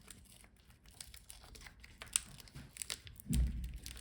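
Faint crinkling and small scattered clicks of laptop display parts being handled by hand as the video cable is worked free, with a short low thump a little after three seconds in.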